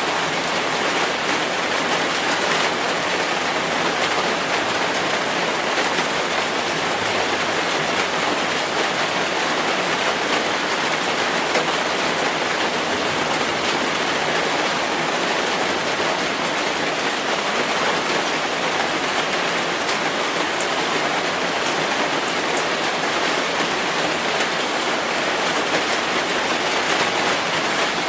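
Rain falling steadily: an even, unbroken hiss with no single drops, thunder or pauses standing out.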